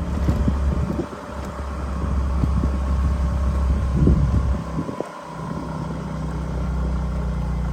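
Small 115 cc motorbike engine running steadily while being ridden, a low drone under rushing wind noise. The sound dips briefly about five seconds in, then returns.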